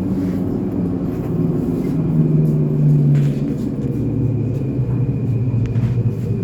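Elizabeth line Class 345 train running, heard from inside the carriage: a steady low rumble with a motor hum that rises slightly in pitch about two seconds in, then drops lower.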